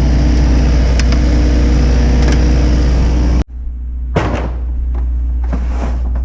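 A vehicle engine idling steadily, with a few sharp metallic clicks over it. About three and a half seconds in the sound breaks off abruptly, and a quieter hum carries on with a few knocks.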